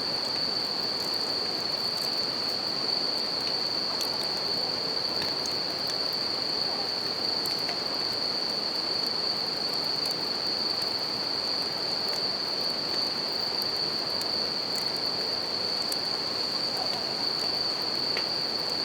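Bell crickets singing a continuous high-pitched chirr over the steady rush of a flowing river, with scattered faint crackles from a wood campfire.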